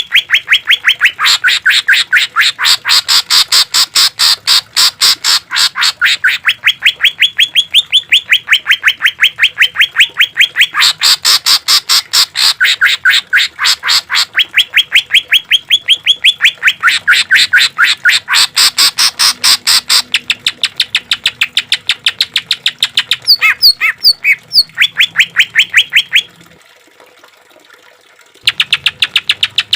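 Greater green leafbird (cucak ijo) singing a long run of harsh, rapid repeated notes, several a second. The run stops about 26 seconds in and starts again two seconds later.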